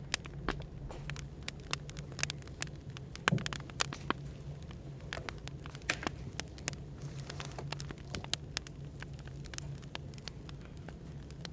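Wood fire crackling, with irregular sharp pops and snaps over a steady low hum of background room noise.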